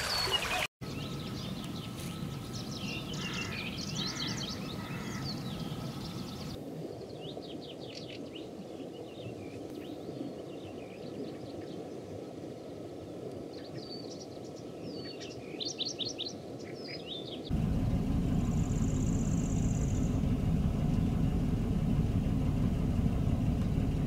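Small songbirds chirping in quick repeated phrases, with the sound changing abruptly a few times. About two-thirds of the way through it switches to a louder, steady low rumbling noise.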